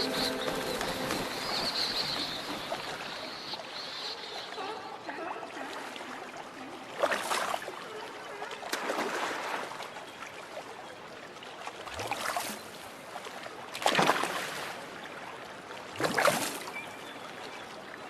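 Cartoon soundtrack water: a steady wash of moving water with five loud swooshing splashes, spaced a couple of seconds apart, after logo music fades out in the first few seconds.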